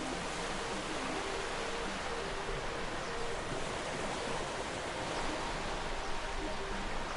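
Steady rushing noise of sea surf, even and unbroken.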